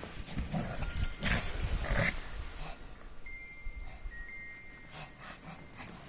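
Small dogs (Shih Tzus) scuffling and moving about, with small dog noises. Busier and louder in the first two seconds, then quieter, with a few faint thin high tones.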